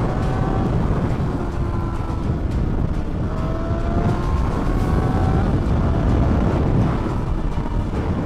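Motorcycle engine running at road speed, its pitch climbing in several runs as it accelerates, over a steady low rumble of wind and road noise.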